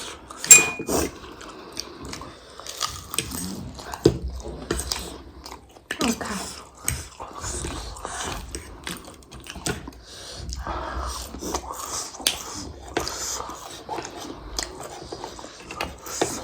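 People biting and chewing food: an irregular run of short clicks and smacks of mouth sounds.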